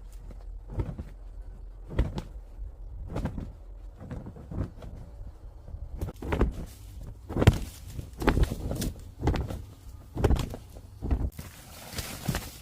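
Irregular knocks and thuds, sparse at first and then coming faster and louder from about six seconds in, at roughly one or two a second.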